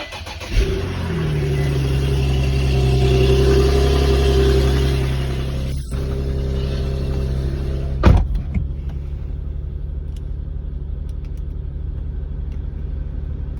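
Infiniti G37's stock 3.7-litre V6 cold-starting: it catches about half a second in, flares and settles into a steady fast cold idle. About eight seconds in comes a sharp thump, after which the engine sounds duller and more muffled as it idles on.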